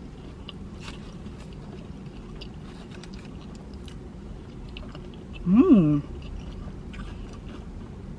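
Close mouth sounds of someone biting into and chewing a breaded chicken tender sandwich, with many small wet clicks. About five and a half seconds in comes a short hummed "mmm" that rises and falls.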